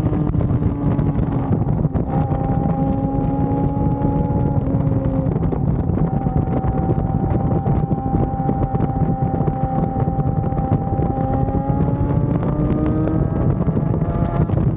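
Yamaha R6 inline-four sport bike engine at a steady cruise, its note dipping slightly and rising again near the end, with wind buffeting the microphone.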